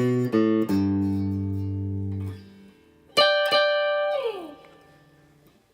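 Guitar playing a short single-note run: three quick notes, then one held for about two seconds. A full chord is then struck twice about three seconds in, slides down the neck and fades out.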